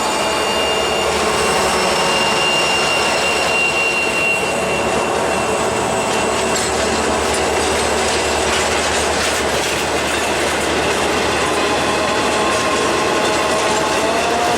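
Freight train rolling past on steel rails, a steady loud rumble of wheels and cars, with thin steady squealing tones from the wheels on the rail.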